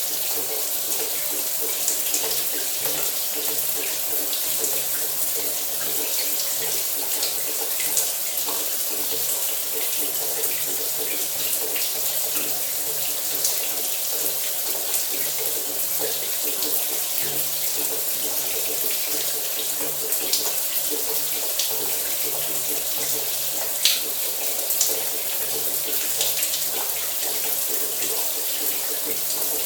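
Shower running: a steady hiss of falling spray, with a few sharper spatters standing out, the loudest about two-thirds of the way through.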